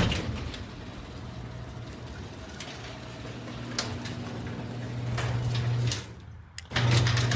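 Genie garage door opener running as the door closes: a steady motor hum with a few clacks, growing louder, briefly breaking off about six seconds in, then resuming.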